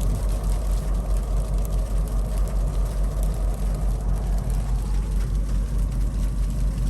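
Steady low rumble inside the cabin of a 2021 Ford Explorer ST in snowstorm traffic, with no distinct events.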